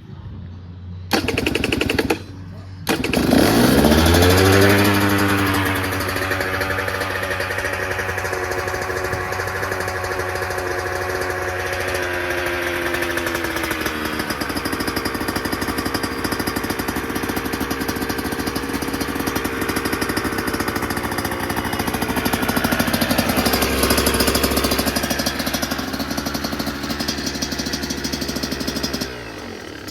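A 2024 KTM 125 SX two-stroke dirt bike engine with its stock silencer. After a brief first burst it starts about three seconds in, its revs dropping as it settles into a steady idle. The revs lift a little later on, and the engine cuts off near the end.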